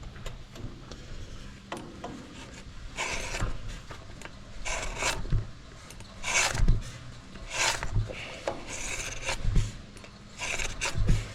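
Knife of a Vermeer 1600 wood chipper being sharpened by hand with a file: about six rasping strokes, one every second or so, starting about three seconds in.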